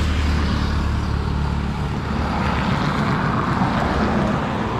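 Motorcycle riding at speed: a steady engine drone with wind rushing over the rider's microphone.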